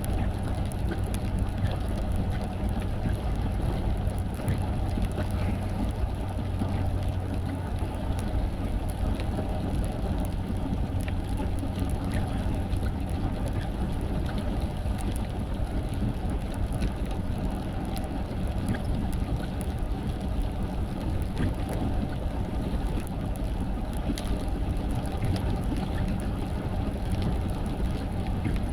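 A car driving in the rain: steady engine and road rumble, with scattered light ticks.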